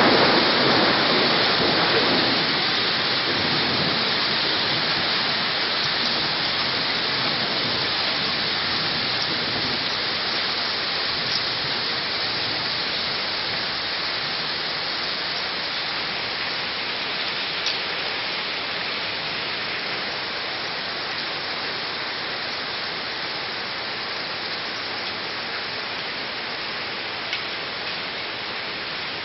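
Heavy thunderstorm downpour: a steady hiss of heavy rain that slowly eases. In the first couple of seconds a thunder rumble dies away, and a few faint ticks show through the rain.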